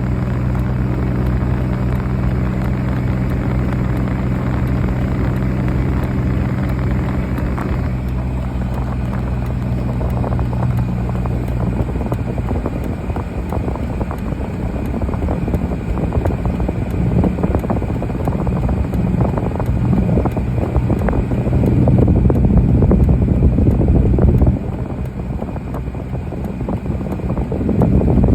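Motor vehicle running, with a steady engine hum for about the first dozen seconds, then an uneven rushing noise that dips for a few seconds near the end.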